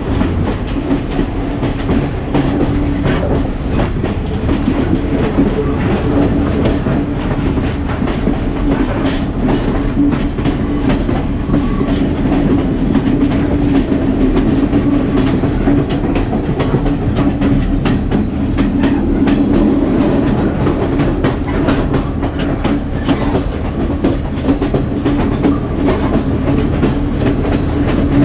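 Passenger train running along the line, heard from inside the carriage at the window: a steady rumble with a low drone, and the wheels clacking and rattling over the rails throughout.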